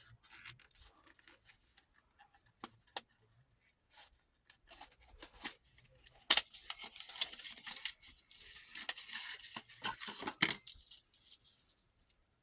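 Small reels of 8mm movie film and their containers being handled: scattered sharp clicks and knocks, with a few seconds of scratchy rustling starting about eight seconds in.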